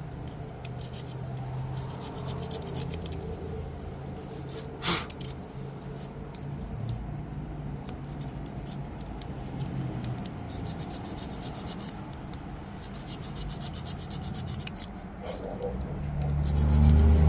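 Continuous rubbing and scraping as a starter's metal parts are sanded or filed clean, with a single sharp scrape about five seconds in. A loud low hum swells up near the end.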